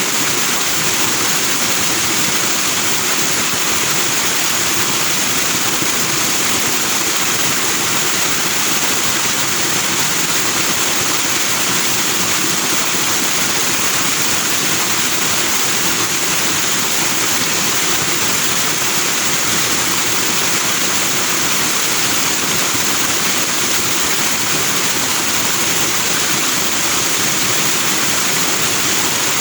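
A fast-flowing forest stream rushing over rocks into white foam, a steady, unbroken water rush, loud and bright-toned.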